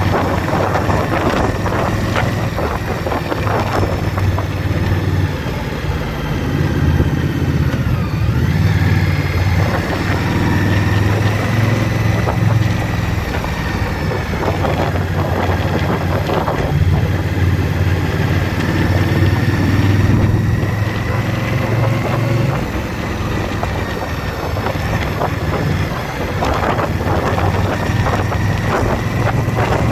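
Indian Scout Bobber's V-twin engine running on the road, its note swelling and easing with the throttle, over a steady rush of wind on the microphone.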